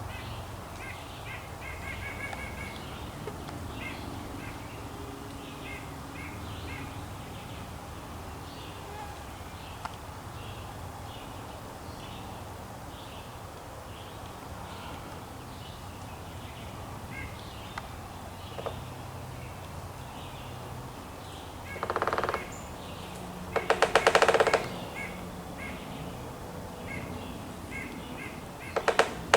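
Woodpecker drumming: three short, very rapid rolls of strikes on wood in the last third, the middle one the loudest, with faint chirps of small birds throughout.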